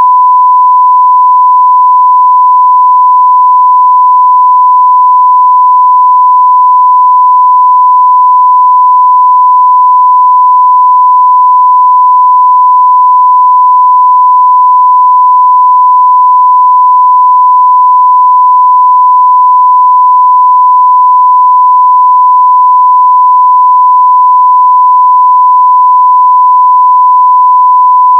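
A 1 kHz sine-wave test tone at full scale (0 dB), one steady, pure, unbroken tone.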